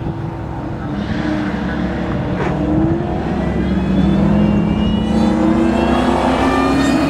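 Cars accelerating at full throttle down a drag strip. The engine note climbs steadily in pitch and grows louder.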